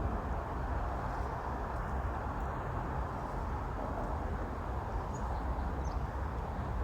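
Steady rumble of road traffic, with two faint short high chirps, like a small bird, near the end.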